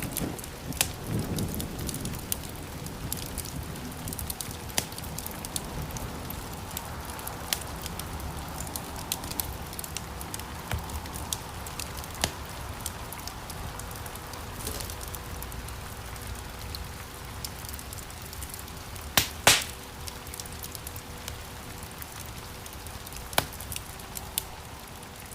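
Wood fire crackling in a fireplace: a steady hiss of burning logs with many small sharp snaps, and a couple of louder pops about 19 seconds in.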